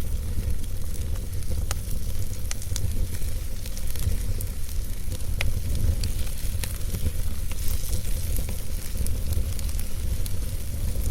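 Wood fire burning in a fireplace: a steady low rumble of flames and a soft hiss, with sharp crackles and pops of the burning logs at irregular moments, several a second at times.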